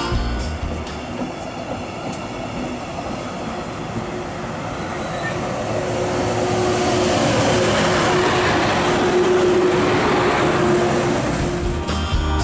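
Regional train of n-coaches pulling out, pushed by a DB class 111 electric locomotive at the rear: a steady rumble of rolling wheels that grows louder as the locomotive comes past, with a steady hum from the locomotive over the middle part.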